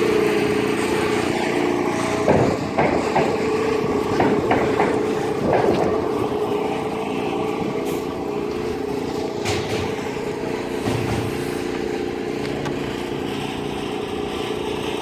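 An engine running steadily, with a few knocks and clatters in the first half.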